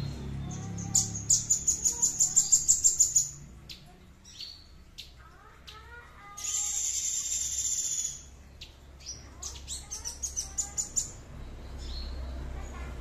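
A caged songbird singing. It gives a run of sharp, high notes at about six a second, a buzzy high trill about six seconds in, and another run of quickening notes near the end.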